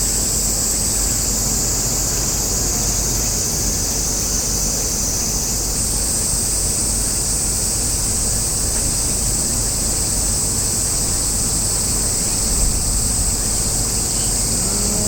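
Summer cicada chorus: a steady, high-pitched insect drone that shifts pitch slightly about six seconds in, over a steady low rumble.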